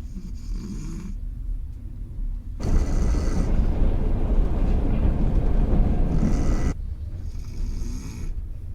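A man snoring heavily in a sleeper-train compartment. There is a long, loud, rough snore from about three seconds in that lasts around four seconds, with quieter throaty breathing before and after it.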